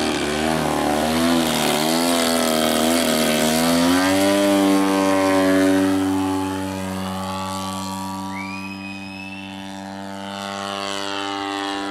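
Single gasoline engine and propeller of a 35% Hangar 9 Extra 300 giant-scale radio-controlled aerobatic plane in flight. The engine pitch wavers up and down with the throttle for the first few seconds, then holds steady while the sound fades and swells again near the end.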